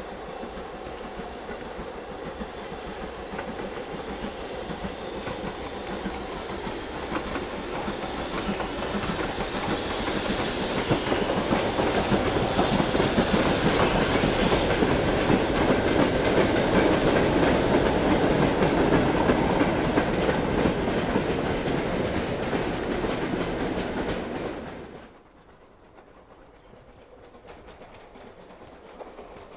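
Steam-hauled train passing close by, its wheels clattering over the rail joints, growing louder and then cutting off abruptly about 25 seconds in.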